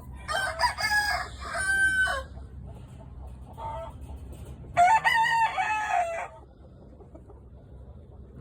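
Gamefowl rooster crowing twice, each crow a long call of about one and a half to two seconds with a few seconds between.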